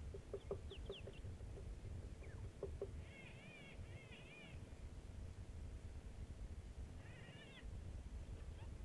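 Birds calling in the bush: a few short whistled notes, then two bursts of quick, wavering high calls about three seconds in and again about seven seconds in, all faint over a steady low rumble.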